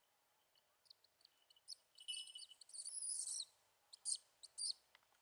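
Short, high-pitched chirps and jingles, several in a row, with a longer stretch about three seconds in: bird calls mixed with the small falconry bells on the hawk.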